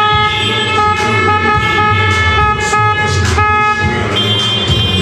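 A loud multi-tone horn blowing in long honks with a few brief breaks, its tone changing about four seconds in.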